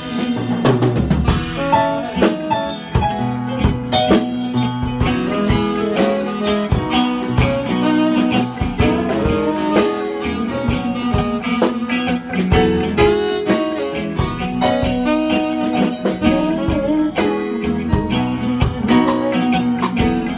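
Live band playing an instrumental stretch of a song, with drum kit and electric guitar and no vocals.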